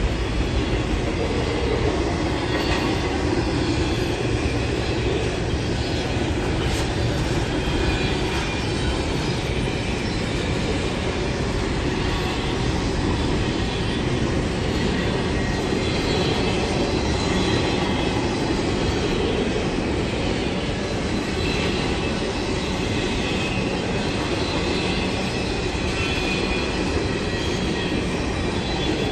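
Train rolling past on the rails: a steady, loud rumble of wheels on track with faint high wheel squeal.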